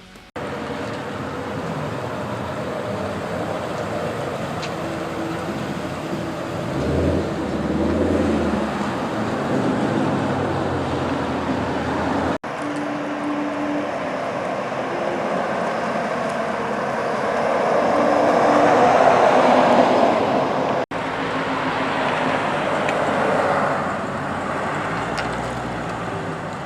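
Car engines running amid steady outdoor background noise, with two abrupt cuts partway through.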